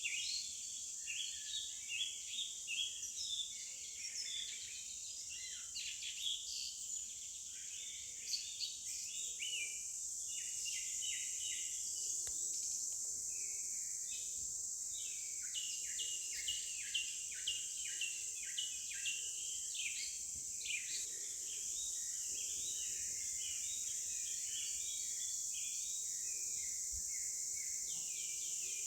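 Many small birds chirping over one another in short, dense calls, with a steady high-pitched insect drone behind them.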